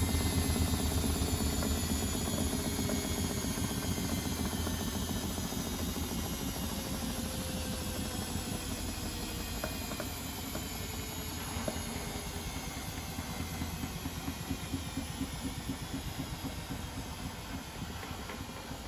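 Privileg Sensation 952 S top-loader washing machine's drum spinning down after a spin: a whining motor and drum whose pitch slowly falls while the sound gradually fades, over a fast low pulsing.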